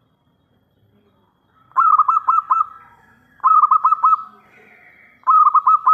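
Zebra dove (local perkutut) cooing: three short phrases of quick staccato notes, each phrase about a second long. The phrases start about two seconds in and repeat every couple of seconds.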